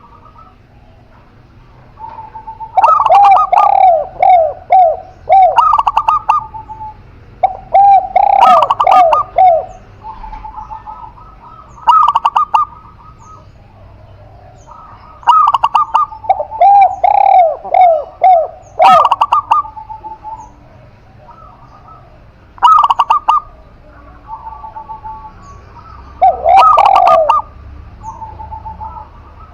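Spotted dove and zebra dove cooing, in repeated phrases of rapid, falling notes a few seconds long, broken by short pauses.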